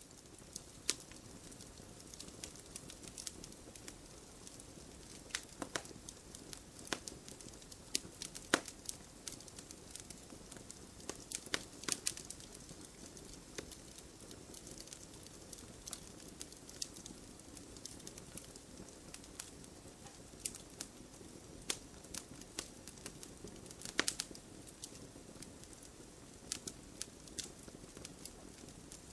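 Wood fire burning with a low steady hiss and irregular sharp crackles and pops, a few louder snaps scattered through.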